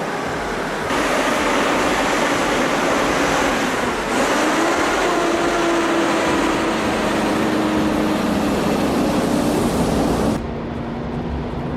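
Heavy truck on the road: a steady engine drone with loud road and wind noise. The sound changes abruptly about a second in and about four seconds in, and turns quieter near the end.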